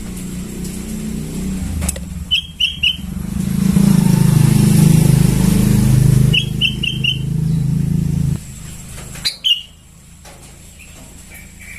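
Young sooty-headed bulbul calling in short quick chirps, three in a row twice, then a single sharper call and a few faint notes. Under the first part, a passing motor vehicle's low rumble swells and then stops abruptly about eight seconds in; it is the loudest sound.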